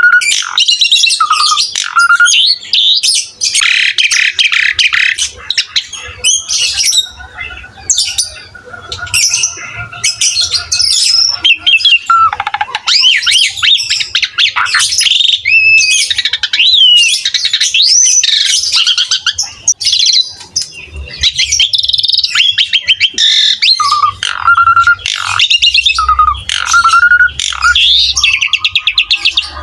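Asian pied starling (jalak suren) in full, vigorous song: a loud, unbroken stream of varied whistles, glides, rasping squawks and chatter. A short clear whistle repeats several times at the start and again near the end.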